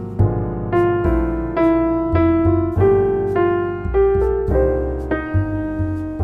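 Background piano music: a calm melody of single notes, about two a second, over held low bass notes.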